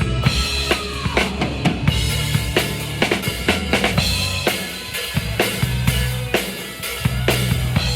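Live band music: a drum kit keeping a steady beat with bass drum and snare, over bass and pitched instrument lines, with one falling glide about a second in.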